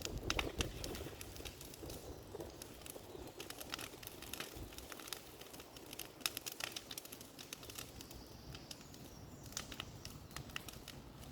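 Bonfire crackling, with irregular sharp snaps over a low rumble.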